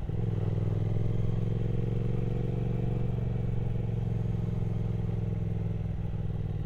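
Triumph Speed Twin 1200's parallel-twin engine running steadily in a low gear, heard from on the bike, after a short dip in sound right at the start.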